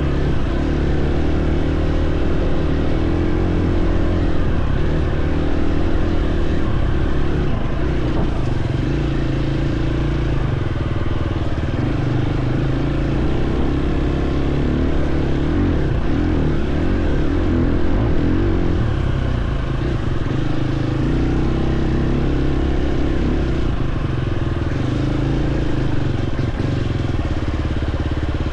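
Dirt bike engine running continuously while being ridden, its pitch shifting up and down with the throttle.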